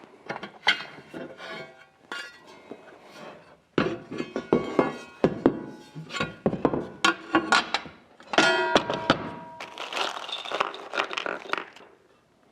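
Steel parts of a portable-bandsaw table being handled and fitted together: repeated knocks and clinks of metal on metal, some ringing briefly, growing busier partway through.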